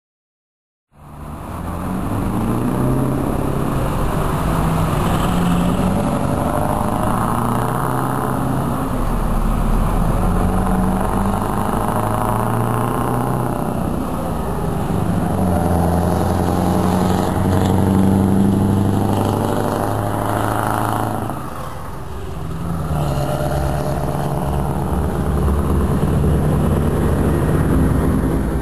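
Scania 164L 480 V8 diesel truck engine pulling away and accelerating through the gears. The engine note rises, then drops back at each shift, several times over.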